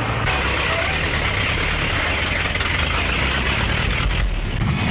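Steady motor vehicle engine noise, a dense rushing sound over a low steady hum, on an early sound-film track.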